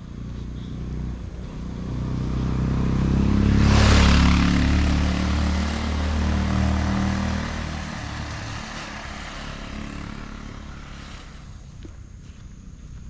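A motor vehicle's engine passing close by: it builds up, is loudest about four seconds in, then fades away over the following seconds.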